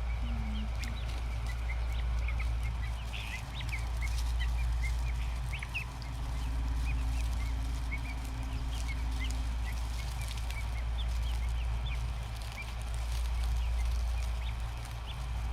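Young guinea fowl keets peeping: many short, high chirps scattered throughout, over a steady low rumble.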